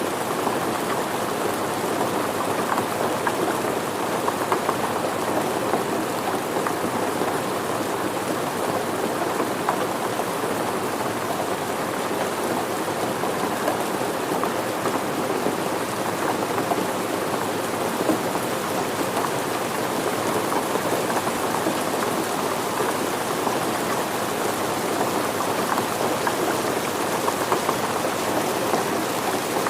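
Steady rain falling and pattering on surfaces, an even hiss of many drops with no pauses.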